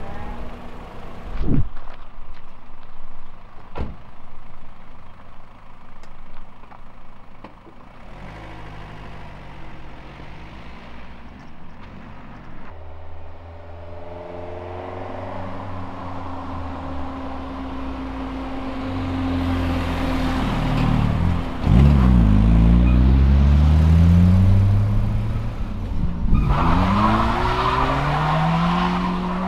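Car engines on a narrow lane, with a few sharp clicks at first. The engines then build up, one car passes close about two-thirds in, and near the end a Toyota Celica T-Sport 190's four-cylinder engine accelerates away, its pitch rising and dropping back as it changes gear.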